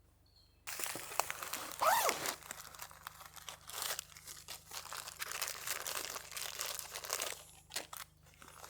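Close rustling and crinkling of handled material, dense with small crackles, with a short rising sweep about two seconds in. It starts abruptly after a brief moment of faint bird chirps.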